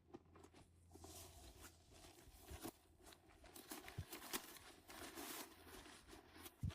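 Faint rustling with scattered light clicks and taps, and a soft low thump near the end.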